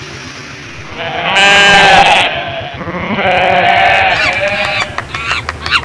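Two long, wavering, bleat-like cries, the first and loudest about a second in and the second about three seconds in, followed by a few shorter calls near the end, over a low steady hum.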